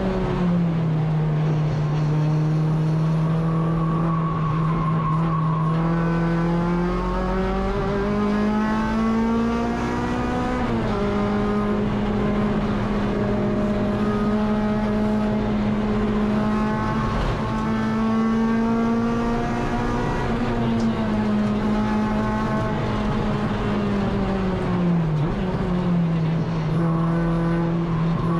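Honda K24 inline-four engine of a Civic EG race car running hard at high revs. Its pitch dips and climbs through gear changes and lifts, rising steadily for a few seconds near the middle, then holding mostly level.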